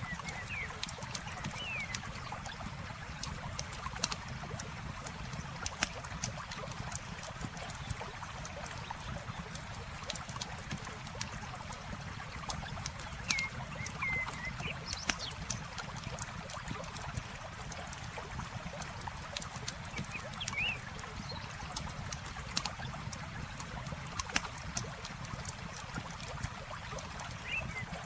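Wood campfire crackling, with sharp pops scattered throughout, over the steady rush of flowing river water. A few short high chirps sound now and then.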